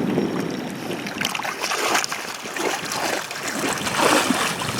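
Irregular splashing and squelching of feet stirring in shallow muddy water.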